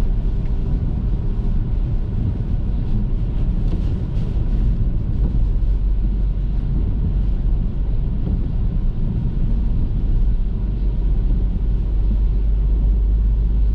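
Car driving at a steady pace: a continuous low rumble of engine and road noise that does not let up.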